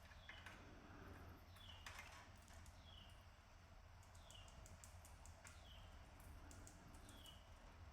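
Faint canary calls: a short, falling chirp repeated about every second and a half, with light clicks and taps between them.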